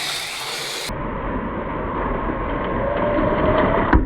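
Small electric motors of AFX Mega G+ HO slot cars whirring steadily as they run around the track, with a faint, slightly rising whine. A sharp click comes near the end.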